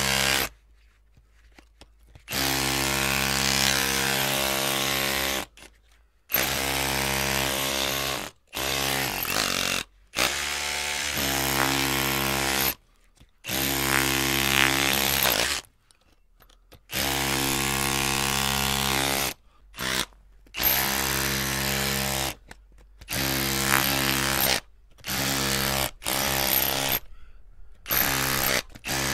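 Electric drill motor run in short bursts, the trigger squeezed and released about a dozen times, each run a steady whine lasting up to about three seconds, with brief silences between.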